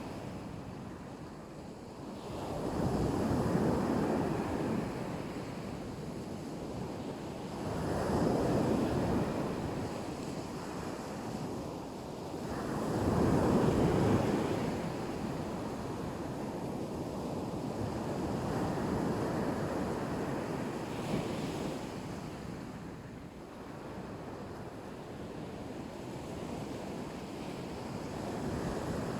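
Black Sea surf washing onto the shore: waves break in three swelling surges about five seconds apart, then settle into a more even wash.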